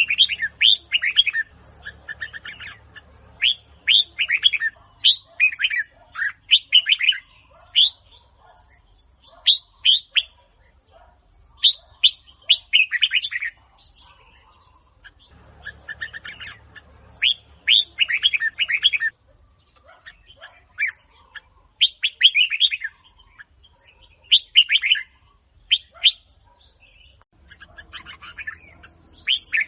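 Red-whiskered bulbul (chào mào, Huế type) singing: loud phrases of quick, sweeping whistled notes lasting a second or two each, repeated with short pauses between them.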